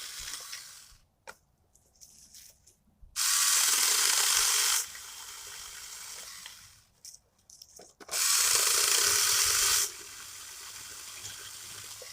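Saker 20V cordless mini chainsaw making two short cuts through small dry trees, about three and eight seconds in. Each cut is a loud hiss of the chain in the wood lasting about a second and a half. The saw then runs free more quietly for a couple of seconds before stopping. A previous run dies out about a second in.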